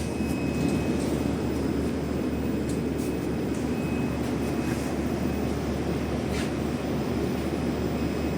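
Metro carriage standing at a station platform: steady low hum and rumble from the train, with no sharp events.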